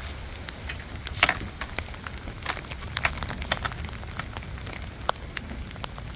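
Wind-blown rain falling steadily, with irregular sharp taps of single drops hitting close to the phone's microphone, over a low rumble of wind.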